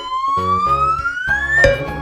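A rising whistle sound effect, one long tone that glides slowly upward in pitch and ends in a sharp hit near the end, over bouncy children's background music.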